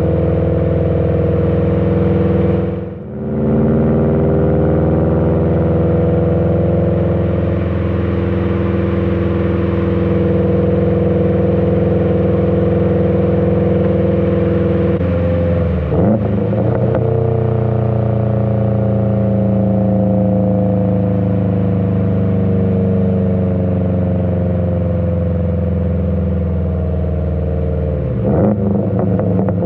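Subaru WRX STI's turbocharged EJ257 flat-four running through an AWE Track Edition exhaust while cruising under steady throttle. The note drops briefly for a gear change about three seconds in, then changes pitch again with further shifts around the middle and near the end.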